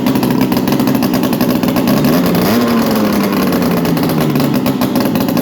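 Engine running with its exhaust removed, idling with a rapid, open pulsing; about two seconds in it is revved briefly and the pitch climbs, then settles back to idle.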